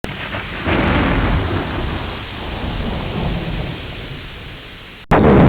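Storm noise: a loud, steady rain-like rush with low rumbling underneath. It starts abruptly, drops out for an instant about five seconds in, and comes back louder.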